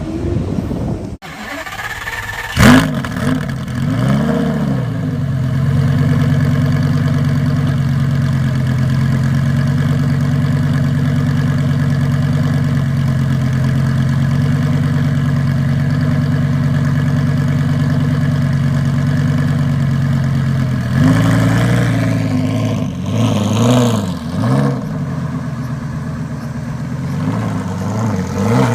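Lamborghini Gallardo V10 starting a few seconds in with a sharp catch and a flare of revs that settles into a steady idle. Over the last several seconds it is blipped with a series of short throttle revs.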